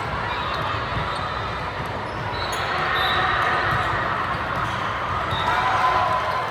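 Basketball game sounds: a ball bouncing on the court over a steady background of crowd voices.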